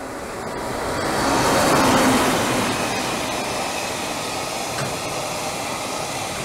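Freight train passing close by, a locomotive hauling flat wagons loaded with rails, its running noise swelling to its loudest about two seconds in, then going on steadily as the wagons roll past.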